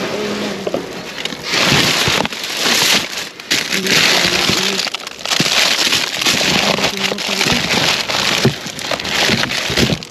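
Plastic bags and food packaging rustling and crinkling loudly as items are handled and pulled out of a dumpster, in several bursts with short pauses.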